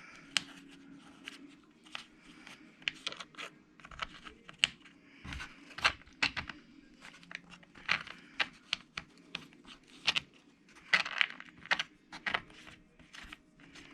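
Small metal screws and a plastic differential cover from an RC truck being handled on a work surface: light clicks and taps at irregular intervals.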